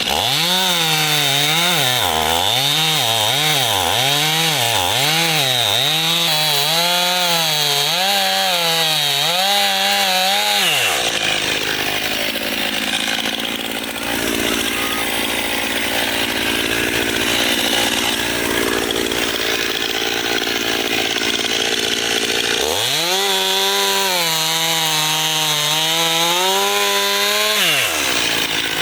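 Stihl chainsaw cutting wood. The engine revs up and down about once a second for the first ten seconds, then runs through a long stretch of steady cutting noise, and holds at high revs again before dropping off near the end.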